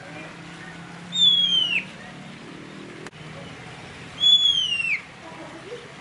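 A bird whistling twice: each is one clear, loud whistle that slides down in pitch over most of a second.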